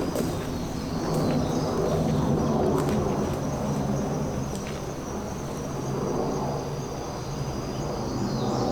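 Steady outdoor rushing noise with insects chirring in a high, even trill above it.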